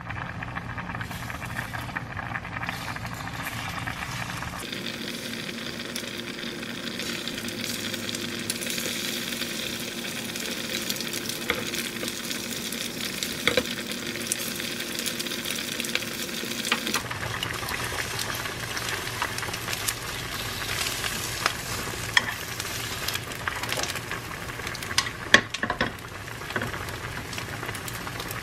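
Egg-dipped slices of Korean sausage ham frying in oil in a square nonstick egg-roll pan over a gas burner, a steady sizzle with occasional light clicks.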